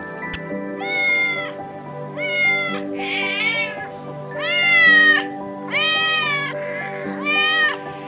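A kitten meowing again and again: about six short, high meows, each rising and falling in pitch, over background music.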